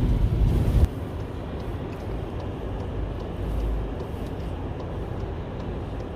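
Car driving, heard from inside the cabin: a loud low rumble of road and engine noise that drops abruptly about a second in, then steady quieter road noise.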